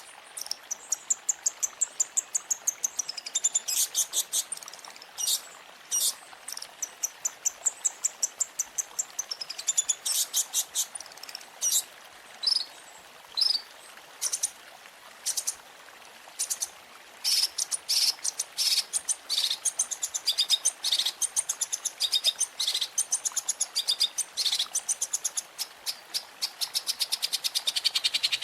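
Long-tailed shrike (cendet) song: fast runs of sharp, high chips and trills in bursts, with short pauses between phrases.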